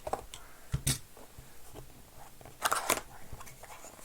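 Trading-card box packaging being handled and opened by hand: a few sharp clicks and crinkles, then a louder rustling rip about three seconds in.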